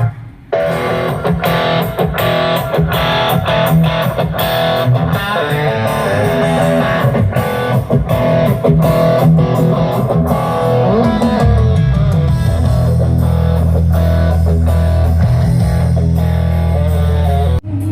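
Guitar-led music mix playing over a parade sound system, with a brief dropout just after the start. A heavy, steady bass line comes in about two-thirds of the way through.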